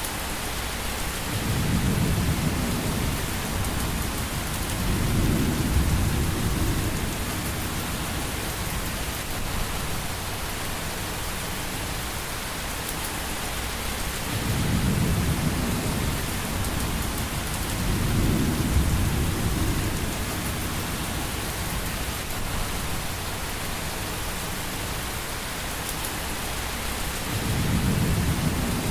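Steady rain with low rolls of thunder, five of them, each lasting a second or two.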